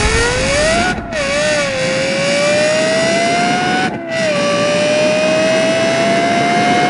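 Lexus LFA's V10 engine accelerating through the gears, its pitch climbing steadily. There are two upshifts, about a second in and about four seconds in, each a brief break followed by a drop in pitch before it climbs again.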